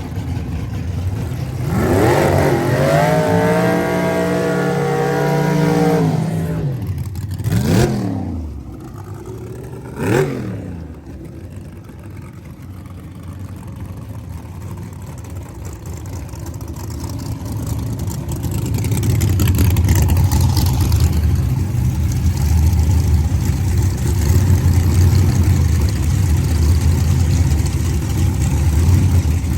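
Race car engine revving: it climbs and holds high revs for about four seconds, then drops, gives two short blips, and then settles into a loud, low, steady run that builds over the second half.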